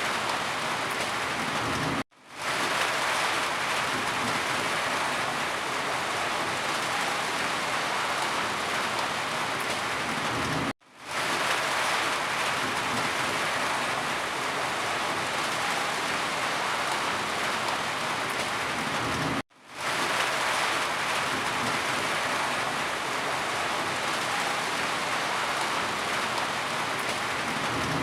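Steady rain falling, an even hiss of drops. Three times the sound cuts out suddenly to near silence and fades back in within a moment, about every nine seconds, the seams of a looped rain recording.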